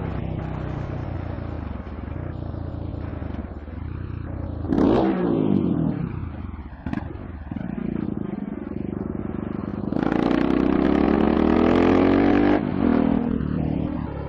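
Road traffic with a vehicle engine running. About five seconds in, a vehicle passes close by with its pitch sweeping. From about ten seconds in, an engine revs up with steadily rising pitch, then cuts off suddenly after two and a half seconds.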